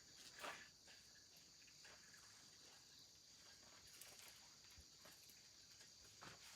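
Near silence: a faint, steady high-pitched hiss, with a soft knock or scuff about half a second in and another near the end.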